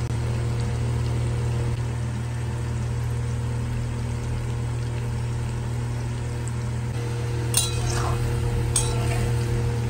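Potato chunks frying in a metal kadai, with a steady sizzle of bubbling oil over a steady low hum. Near the end a metal spatula clinks twice against the pan as the potatoes are stirred.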